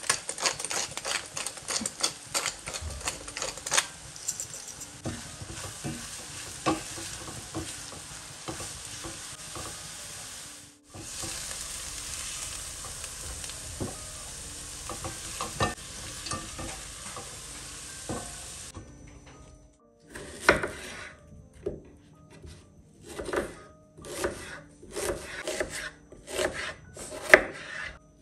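Diced eggplant sizzling in oil in a nonstick frying pan, with frequent sharp clicks of a spatula stirring and scraping the pieces. After a brief break the sizzle goes on as the pieces are scooped out with a silicone spatula. About two thirds of the way in it stops, and a knife chops an onion on a wooden board in separate strokes, roughly one or two a second.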